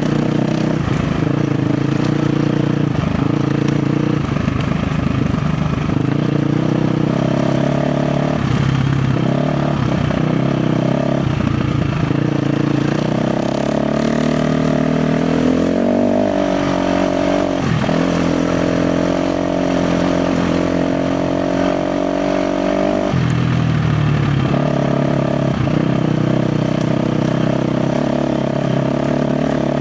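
KTM 350 XC-F dirt bike's single-cylinder four-stroke engine pulling under load, its revs rising and falling with the throttle. The pitch climbs about halfway through, holds higher for several seconds, then drops back.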